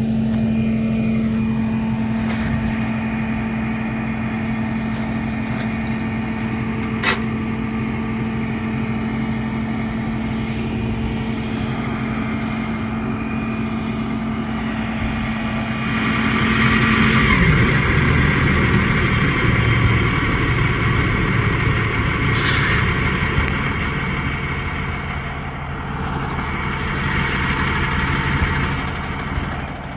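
Heavy truck engine idling with a steady hum. About halfway through, the pitch drops and the rumble grows louder and rougher as the truck gets moving. A short sharp hiss comes a few seconds later.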